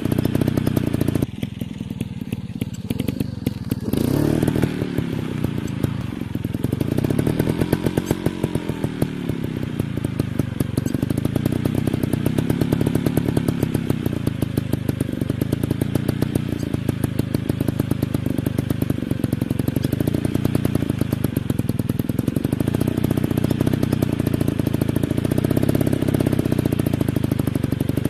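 Dirt bike engine running, revved up and down several times, with a rapid even firing beat throughout.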